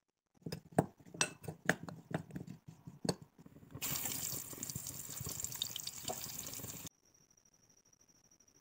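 Oil poured onto potato wedges in a glass bowl, with irregular wet clicks and taps. Then a steady sizzle as the potato wedges deep-fry in hot oil, cutting off suddenly about seven seconds in.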